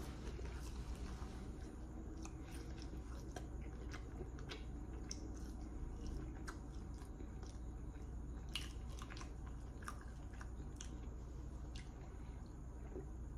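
A person chewing a mouthful of French fries close to the microphone, with scattered short mouth clicks over a steady low hum.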